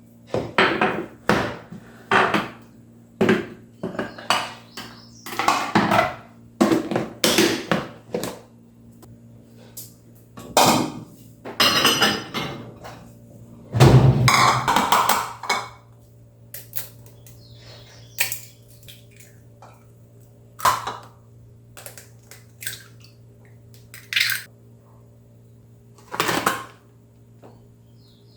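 Dishes, pots and cutlery being handled in a kitchen, with irregular clatters, knocks and clinks over a steady low hum. The handling is busiest in the first half and thins to occasional knocks later.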